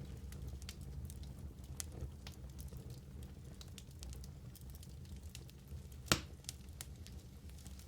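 Wood fire burning in a fireplace: a steady low rumble of flames with scattered crackles, and one sharp, louder pop about six seconds in.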